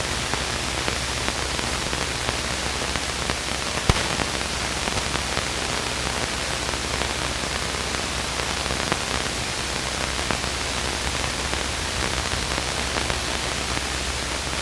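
Steady hiss from a light aircraft's intercom and radio audio line, with a low steady drone underneath and a single click about four seconds in.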